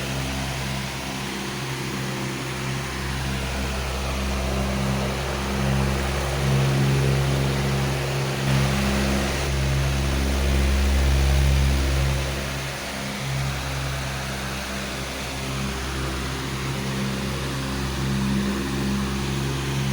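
Powerful electric fan running steadily: rushing air over a low motor hum that swells and fades slowly every few seconds.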